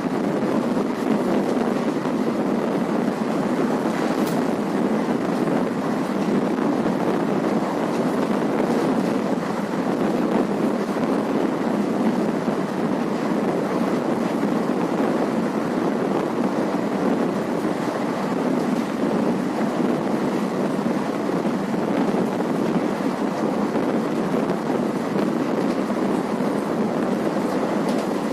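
Express passenger train running steadily, heard from on board: an even rumble of wheels on the track mixed with the rush of wind.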